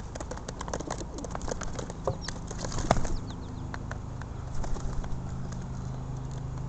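A flock of pigeons feeding on the ground: a rapid scatter of sharp pecking and scrabbling clicks with wing flutters, busiest in the first half, with a louder knock near the middle.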